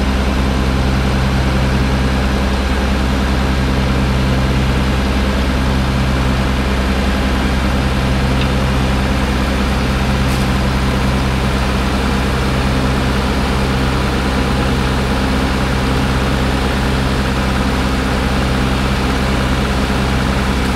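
Heavy diesel engine idling steadily, a deep constant drone with no change in speed.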